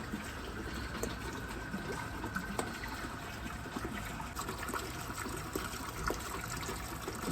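Water trickling steadily through the channels of a marble run, with faint scattered clicks of balls knocking along the track.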